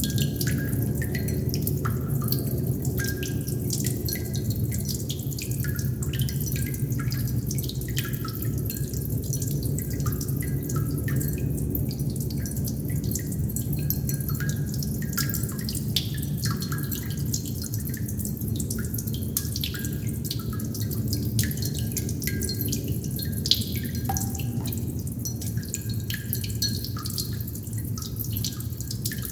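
Water droplets dripping in an irregular patter, many short plinks a second, some with a faint ringing pitch, over a steady low rumble.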